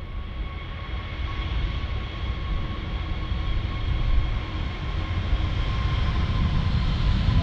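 Jet airliner's engines, a deep rumble with a steady high whine over it, growing louder as the aircraft draws nearer.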